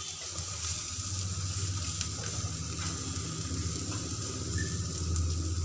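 Chopped carrots, onions and spices sizzling in oil in a pan while a wooden spatula stirs them, over a steady low hum.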